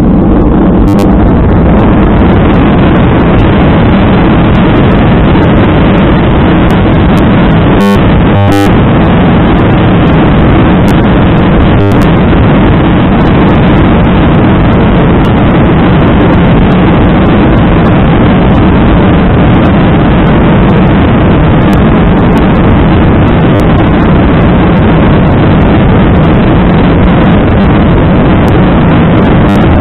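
Airliner jet engines at takeoff power, heard from inside the passenger cabin: a loud, steady roar that swells in at the start and holds. A few short knocks come around eight and twelve seconds in.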